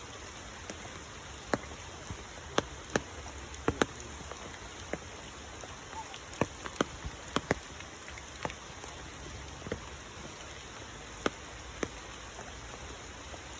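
Rainwater pattering over a steady hiss, with irregular sharp drops striking a surface one or two times a second.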